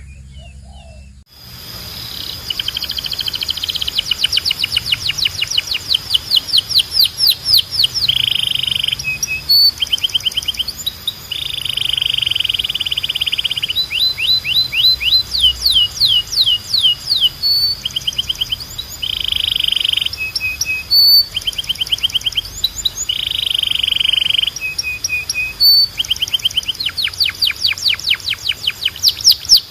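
Domestic canary singing a long, continuous song of rapid trills, repeated sweeping notes and buzzy rolls, starting about a second and a half in.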